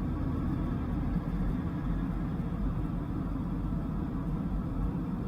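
Dodge Viper GTS's V10 engine running at a steady cruise, a low, even drone with road and tyre rumble underneath.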